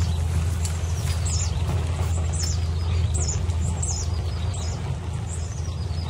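A bird repeating short, high, downward-slurring chirps about once or twice a second, over a steady low rumble.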